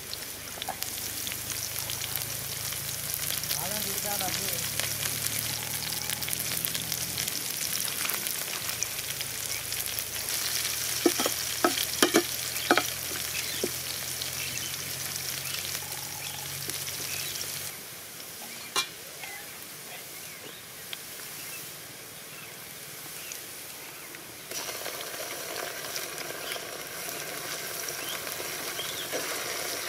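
Sliced onions and green chillies sizzling steadily in hot oil in a large pan, stirred with a metal slotted spoon that clinks sharply against the pan several times near the middle. Near the end the sizzling gets louder as ginger-garlic paste goes into the oil.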